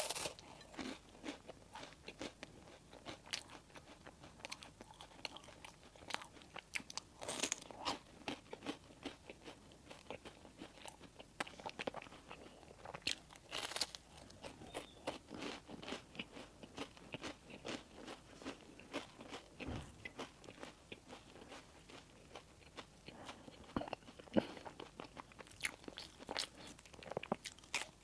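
Close-miked eating of bakery bread and pastry: steady chewing with many small crunchy, moist clicks, and a few louder bites scattered through.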